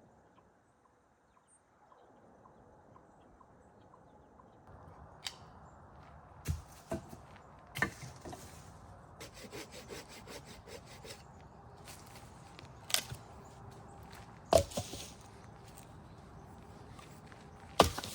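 Wood being broken up by hand or tool: about six sharp wooden cracks spread out after the first few seconds, with splintering crackles in between.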